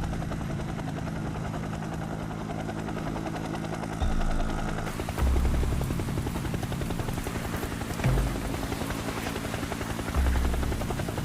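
Helicopter rotor sound effect: a steady, rapid chop, with several louder low swells.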